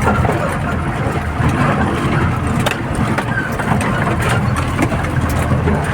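Loaded Tata truck's diesel engine running steadily as the truck drives, with scattered rattles and knocks over it.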